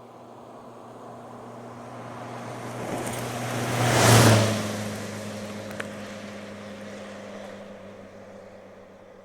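Ford Fiesta driving past: engine and tyre noise build up to a peak about four seconds in, the engine note drops in pitch as the car passes, then fades away.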